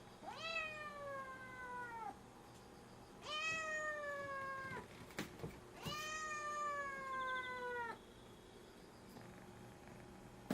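Kitten about eleven weeks old meowing for her food: three long, drawn-out meows, each rising quickly and then sliding slowly down in pitch. A few light clicks fall between the second and third meow.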